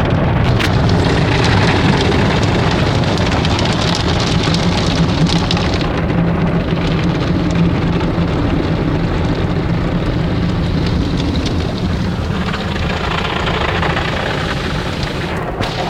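Touchless automatic car wash machinery running around the car, heard from inside the closed cabin: a loud, steady rush of spray and machine noise with a low drone, slightly quieter over the last few seconds.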